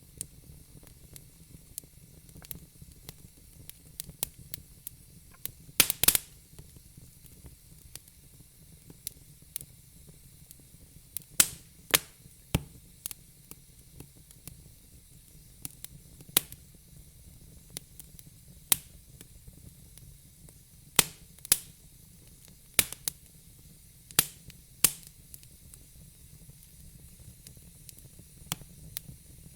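Wood fire crackling: irregular sharp pops and snaps over a soft steady hiss, with a cluster of louder pops about six seconds in and several more in the second half.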